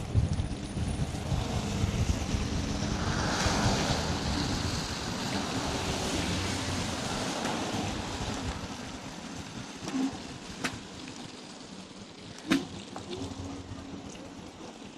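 Wind rumbling on the microphone with a hiss of road noise during a scooter ride through snowy streets, easing off after about eight seconds. A few short sharp knocks near the end.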